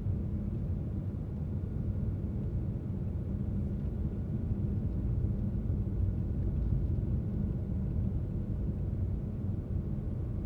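Steady low rumble of a car being driven along a road: engine and tyre noise, even throughout.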